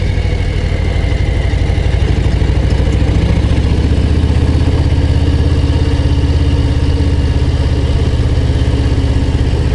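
Harley-Davidson Low Rider ST's Milwaukee-Eight 117 V-twin running steadily while the motorcycle is ridden, a dense low pulsing exhaust note at an even engine speed.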